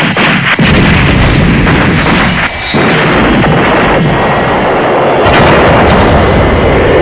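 Sound-effect explosions: a string of loud blasts, with new ones coming about half a second in, near three seconds and past five seconds, and a continuous heavy rumble and crackle of fire between them.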